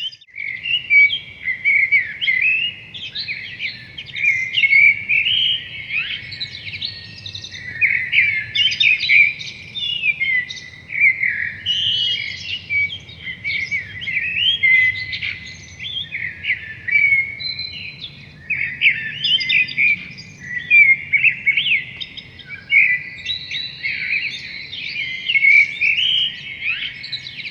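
Songbirds singing, a dense, unbroken run of high chirps and short overlapping phrases.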